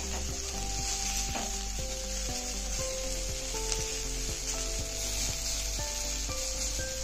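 Boiled baby potato slices sizzling as they fry in oil on an iron tawa, with a spatula scraping and turning them now and then.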